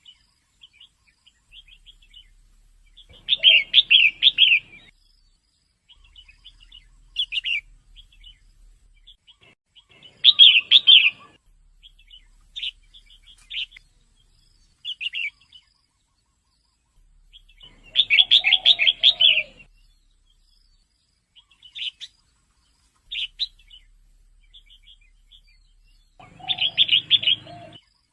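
Female red-whiskered bulbul calling: a loud burst of rapid chattering notes about every eight seconds, with short single chirps in between.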